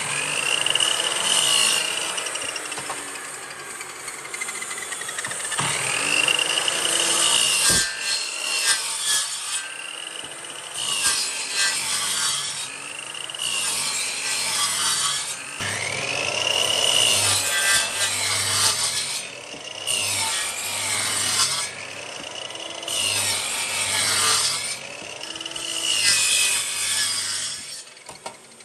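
A power tool cutting or abrading wood in repeated passes. Its motor pitch swells and dips with each pass, about every two to three seconds, over a steady rasping hiss.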